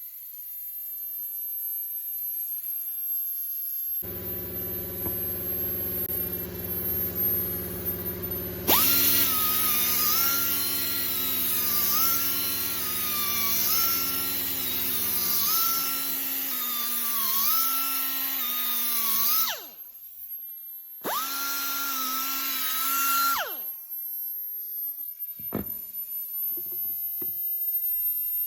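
Grinder running with a high whine whose pitch dips about once a second as the disc is pressed onto the metal for each swirl of a grinder tattoo, in two runs, the second shorter. A steady lower machine hum runs under the first part, and a few light knocks follow near the end.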